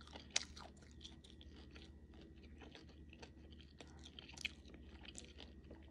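Close-up chewing of a fried shrimp-and-pork ball in a crisp spring-roll wrapper: faint crunching with irregular crackles, a few of them louder.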